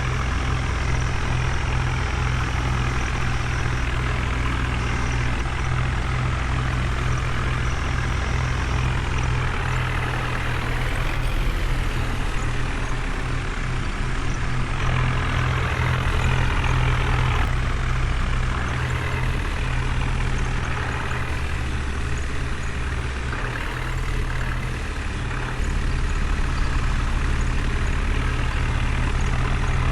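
Heavy diesel engine running steadily with a deep, low note. The sound shifts a few times as the engine's load or speed changes.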